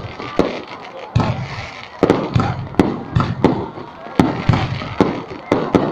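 Fireworks going off in a rapid, irregular string of sharp booms, more than a dozen in a few seconds, each trailing away in a rumble.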